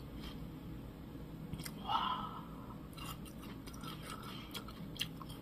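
A person quietly chewing a mouthful of crisp Korean Naju pear, with soft crunches and small wet mouth clicks. A slightly louder crunch comes about two seconds in.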